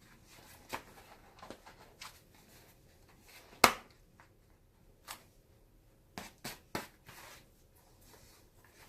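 Hands working on a baseball glove under repair: scattered light clicks, taps and rubbing, with one sharp knock about three and a half seconds in and three quick knocks a little later.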